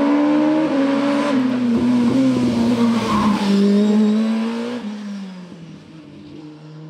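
Hill-climb race car engine at high revs, its pitch shifting and dropping in steps, loud for about five seconds, then fading as the car moves away.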